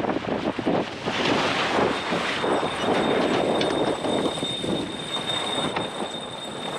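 Wind buffeting the microphone and water rushing along the hull of a sailboat under way, a loud uneven rush. A faint steady high tone comes in about two seconds in.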